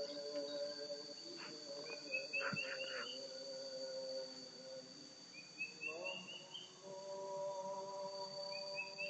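A bird repeating a short run of quick notes that climb in pitch, about every three and a half seconds, over a steady high-pitched insect drone.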